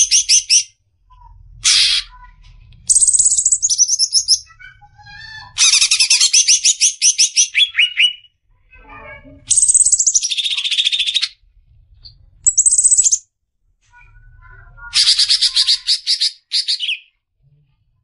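Cucak ijo (green leafbird) singing in 'besetan' style: loud bursts of fast, rapidly repeated high whistled notes, each lasting one to two and a half seconds, broken by short pauses filled with softer scattered chirps.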